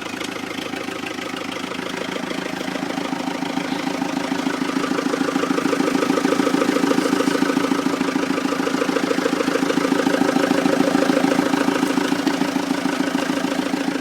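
Fiat 780 DT tractor's diesel engine running just after a cold start in frost, growing louder over the first six seconds or so and then running steadily.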